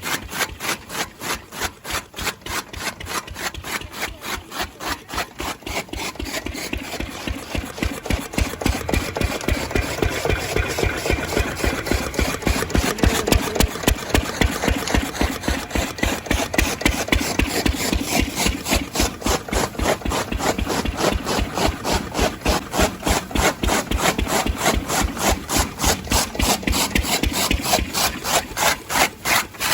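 Old engine driving a fodder chaff cutter as grass is chopped: a steady rhythm of a few beats a second, with a louder, rougher cutting noise joining after about six seconds.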